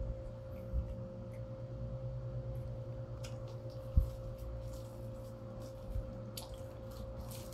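A mouthful of pepperoni pizza being chewed, with short mouth clicks and smacks, over a steady background hum. A single low thump about four seconds in is the loudest sound.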